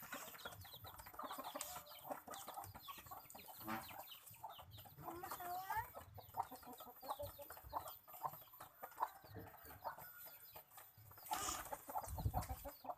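Domestic birds calling: a busy run of short chirps and clucks with a few sliding calls. A brief louder rustle with low thumps comes near the end.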